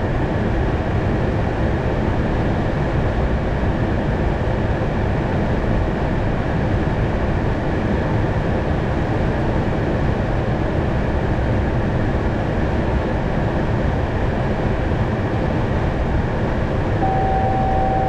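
Steady rush of airflow and engine noise in the Airbus A220's cockpit during the approach, with a faint hum under it. Near the end a short steady tone sounds for about a second.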